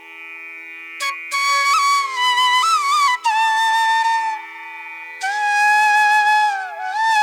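Background music: a flute playing a melody in phrases with slides and quick ornaments, over a steady sustained drone.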